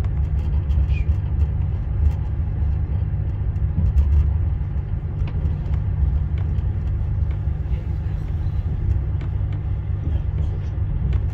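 Steady low rumble of a moving passenger train heard from inside the carriage, with faint scattered clicks over the top.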